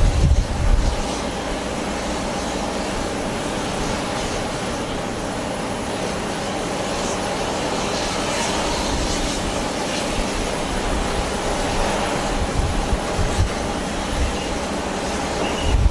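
A jet airliner's engines running with a steady whine, while strong typhoon wind buffets the microphone in deep gusts, strongest at the start and again near the end.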